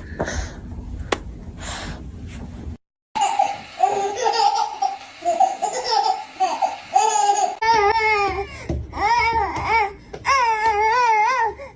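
Baby laughing and squealing in high, wavering bursts of voice, broken by a brief gap about three seconds in.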